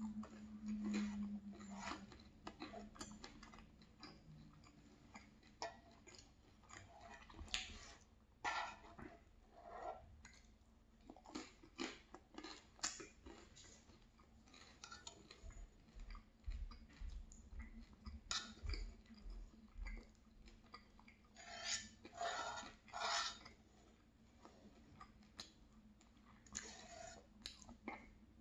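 Close-miked chewing and wet mouth sounds as bread soaked in tomato sauce is eaten, irregular and with short pauses. Light scraping and clinking against a nonstick frying pan comes in now and then.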